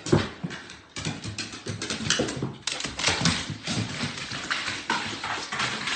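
A dog moving about, with irregular taps and scuffles throughout.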